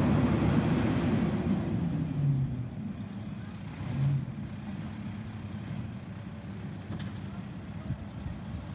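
Garbage truck engine running, fading over the first three seconds as the truck moves away, then a low steady rumble.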